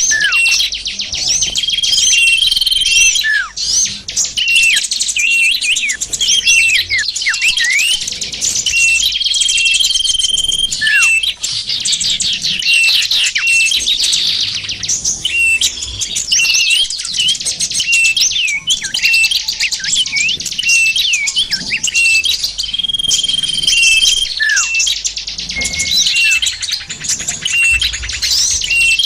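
A dense chorus of many small songbirds chirping and trilling at once, with a steady high whistle about a second long recurring every several seconds and quick downward-sliding notes. It is a bird-trapping lure recording (suara pikat) meant to draw in small wild birds.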